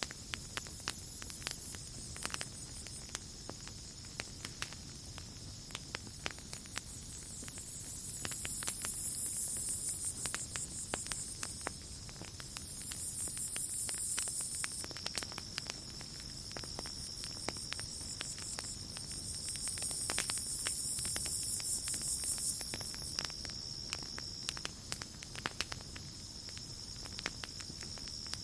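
Campfire crackling with frequent sharp pops, over a steady high trilling of crickets. A higher insect buzzing swells up and fades three times, each swell lasting a few seconds.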